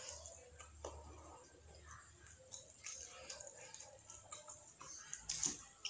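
A person chewing food close to the microphone: soft, irregular mouth clicks and smacks, with a louder cluster about five seconds in.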